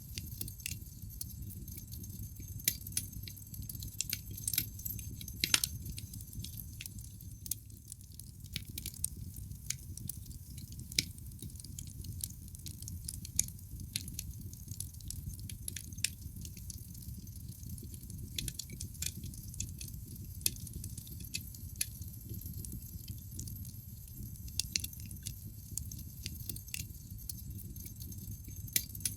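Wood fire burning in a fireplace: irregular crackles and pops from the burning logs over a steady low rumble of the flames, with a sharper pop about five and a half seconds in.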